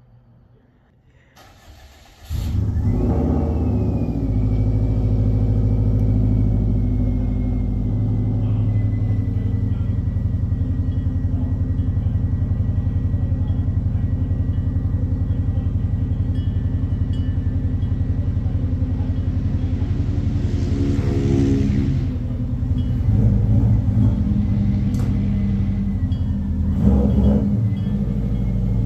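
Subaru 2.0-litre WRX flat-four engine starting about two seconds in and settling into a steady idle, with a thin high whine that drops slightly in pitch as it settles. The level rises a little for a few seconds near the end.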